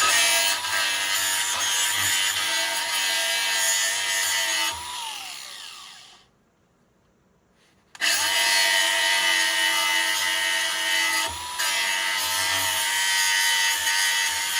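Small electric power tool sharpening a lawn mower blade, the motor running with a grinding hiss from the steel edge. About five seconds in it is switched off and winds down with a falling whine. After a short silence it starts again suddenly and keeps grinding.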